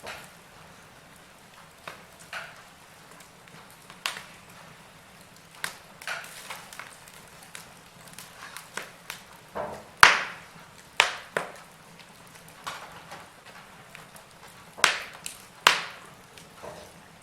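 Wood fire crackling: burning logs give off irregular sharp pops and snaps over a faint steady hiss, a few louder pops about ten seconds in and again near the end.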